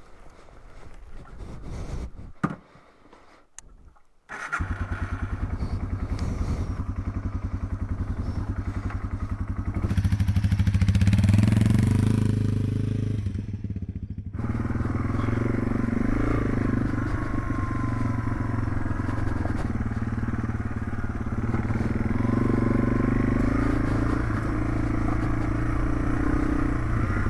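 Yamaha TW200's single-cylinder four-stroke engine running, with an even, rapid firing pulse. It comes in abruptly about four and a half seconds in after a few quieter seconds with a sharp click, and gets louder as it revs from about ten to twelve seconds in.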